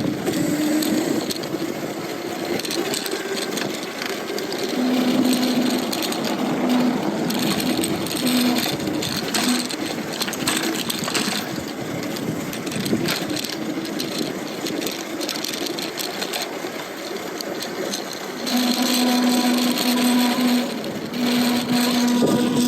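Electric bike under way: wind and road noise, with a steady hum from its Lightning Rods drive motor that comes and goes in broken stretches, about five seconds in and again near the end.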